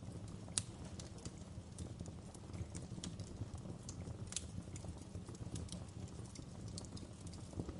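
Wood fire crackling in a fireplace: irregular sharp pops and snaps over a steady low rumble of the flames, with a louder pop about half a second in and another past the middle.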